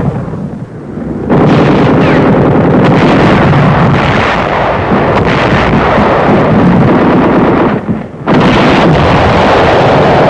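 Loud, continuous battle sound of artillery and gunfire, a dense roar of explosions and shots on a wartime newsreel soundtrack. It eases in the first second and drops out briefly about eight seconds in.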